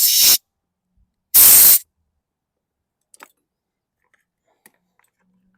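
Compressed-air blow gun hissing as it blasts out carburetor parts: a blast that cuts off about a third of a second in, then one more short, loud blast about a second and a half in. A few faint clicks of parts being handled follow.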